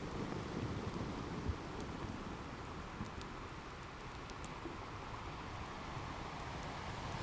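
Ocean surf washing in with a steady low rumble, overlaid with a crackling fireplace giving scattered sharp pops.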